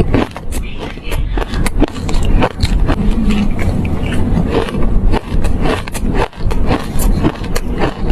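Close-miked crunching of shaved ice being chewed by the spoonful: a dense run of sharp, irregular crunches, several a second, over a heavy low rumble of jaw and mouth noise.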